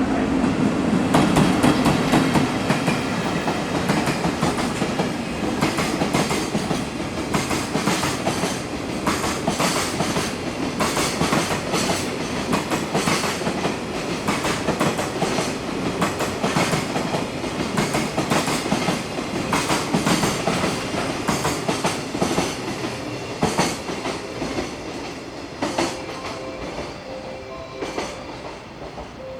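Freight train passing through a station, its wheels clattering over rail joints in a long, rapid run of clicks; loudest at the start and slowly fading as the train draws away.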